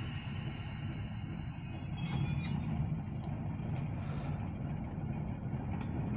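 Short freight train of grain hopper cars rolling past with a steady low rumble. A thin high-pitched squeal rides over it from about two seconds in until shortly before the end.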